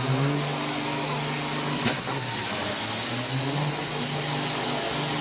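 Semi-truck diesel engine running steadily, its pitch drifting slightly, with a high whine above it that slowly wavers in pitch. A single sharp snap comes about two seconds in.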